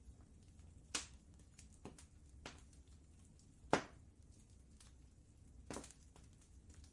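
Wood fire crackling: a few scattered sharp pops at irregular intervals, the loudest a little under four seconds in, over a low steady rumble.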